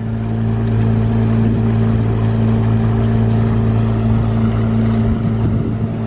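Motorboat engine running steadily at cruising speed, a constant low drone with rushing wind and water noise around it.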